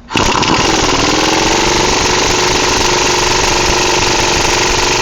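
Impact wrench spinning up and then hammering steadily on a tight wheel-hub mounting bolt. Its pitch climbs over the first second, then holds as a rapid, even hammering.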